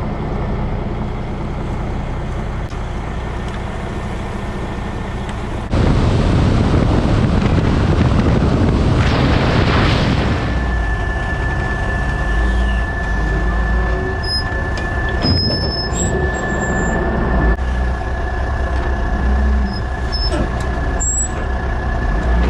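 Dump truck engine running, getting louder about six seconds in, with a short burst of air hiss about nine seconds in and a steady high whine after it.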